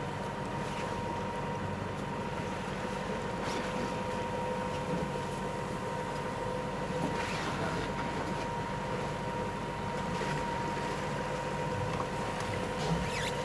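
Sailboat's inboard engine running steadily under motor in a dead calm, a continuous hum with a steady high tone over it.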